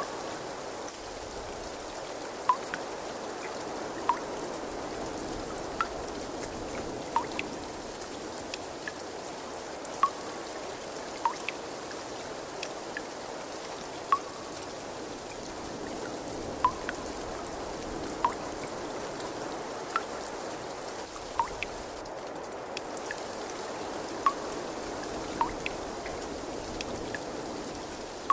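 Steady trickling water, with clear single drips plinking into it every second or two.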